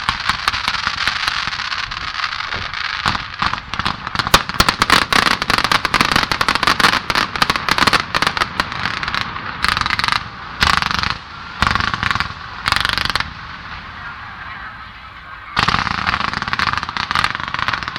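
Aerial fireworks crackling in a dense, rapid run of pops. After about nine seconds the crackling breaks into short separate volleys, then eases to a lull before a fresh burst of crackling near the end.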